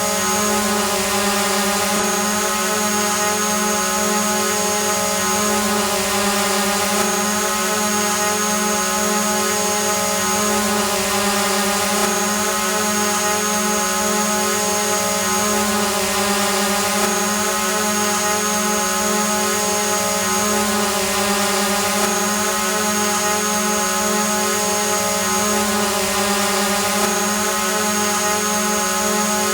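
Quadcopter drone hovering: a steady propeller whine that holds one pitch throughout. A thin high tone on top breaks off briefly about every five seconds.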